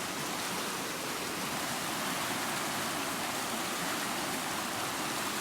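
Steady rush of a flood-swollen creek's water pouring through a culvert, an even, unbroken noise.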